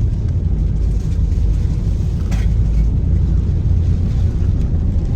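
Steady low rumble of a car driving, with road and engine noise, and one brief click about two and a half seconds in.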